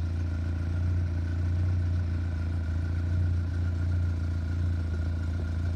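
1974 Fiat 128SL's 1100cc single-overhead-cam engine idling steadily, with a strong low hum and an even stream of firing pulses that does not rise or fall.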